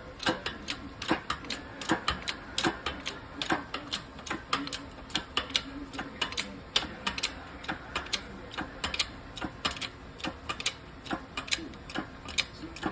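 Hand tools clicking and tapping on metal parts, in an irregular run of sharp clicks, several a second.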